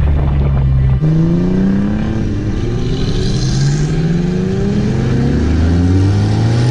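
Car engine accelerating hard, its pitch climbing and dropping back several times as it shifts up through the gears.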